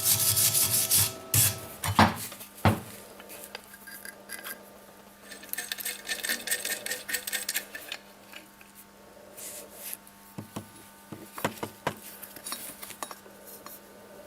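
Hand workshop work on a part: rubbing or filing strokes, loudest in the first second and a half, then two sharp clinks, a stretch of softer scraping, and a few scattered taps near the end.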